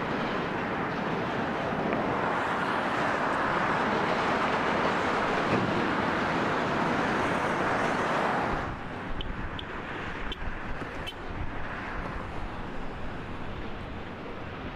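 Steady rolling noise of moving vehicles. About eight and a half seconds in it drops abruptly to a quieter rumble, with a few short, high squeaks or clicks just after.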